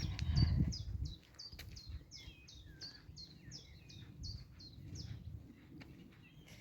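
A songbird repeating short, high chirps about three times a second, each note dropping in pitch; the series stops about four seconds in. A low rumble, strongest in the first second, lies under it.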